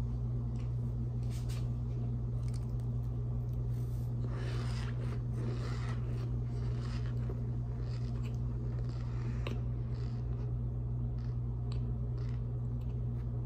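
A person chewing a mouthful of cornstarch: scattered soft crunches and mouth clicks, thicker about four to seven seconds in, over a steady low hum.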